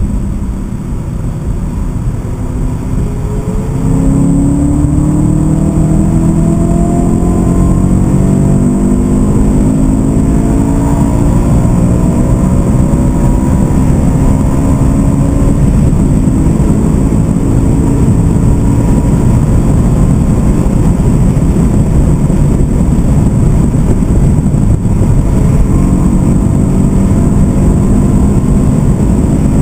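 BMW M3 E92's 4.0-litre V8 heard from inside the cabin, pulling hard under acceleration from about four seconds in, its pitch climbing slowly over a long stretch, with steady road and wind noise underneath.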